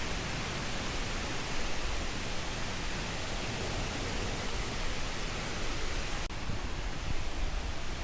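Steady rush of a waterfall, an even hiss and roar of falling water, with a brief dip about six seconds in.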